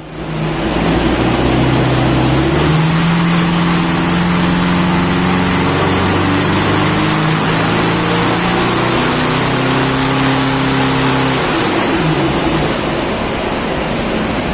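Toyota Fortuner 2.5 turbodiesel, fitted with a full 3-inch exhaust, running hard under load on a chassis dyno: a power run after an ECU remap. The engine note shifts in steps over a loud, steady rush of noise and eases off about eleven seconds in.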